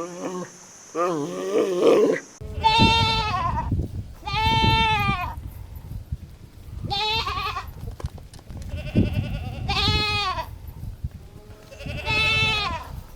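An animal calling over and over, about seven pitched calls each lasting up to a second, some wavering, some arching down in pitch. The background changes abruptly about two seconds in.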